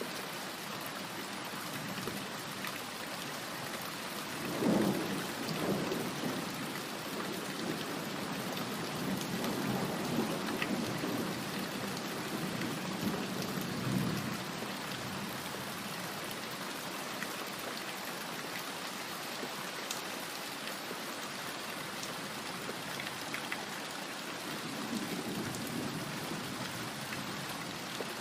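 Steady heavy rain, with rolling thunder: a sharp-edged peal about four seconds in that rumbles on for several seconds, and a softer rumble near the end.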